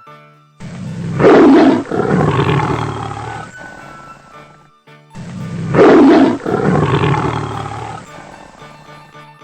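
Big cat roar sound effect played twice: two long, loud roars, each nearly three seconds long, over soft children's background music.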